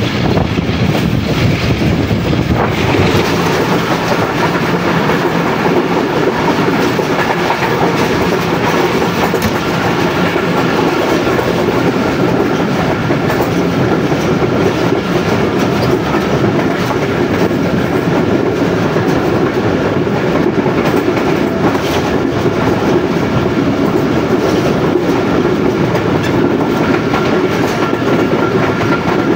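Passenger train coach running at speed: steady rumble of the wheels on the track, with clattering over the rail joints.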